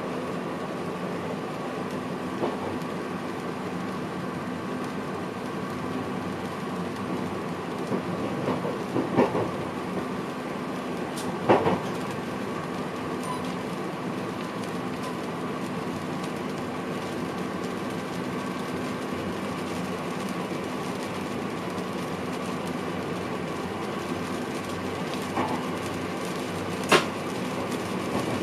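Inside the cab of an NS VIRM double-deck electric train running along the line: a steady running noise and hum, broken by a few sharp knocks from the wheels, the loudest a little before halfway and near the end.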